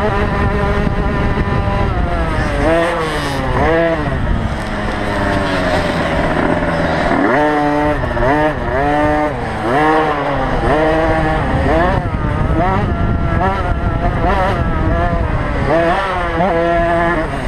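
Small two-stroke motocross bikes racing, their engines revving up and dropping back again and again as they accelerate and shift.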